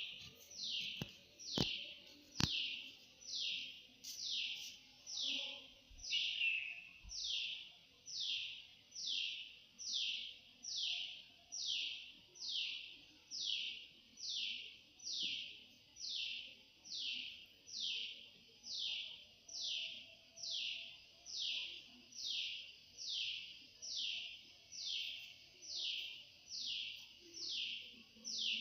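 An animal's high-pitched buzzing call, repeated at an even pace about once a second. Three sharp clicks come in the first two and a half seconds.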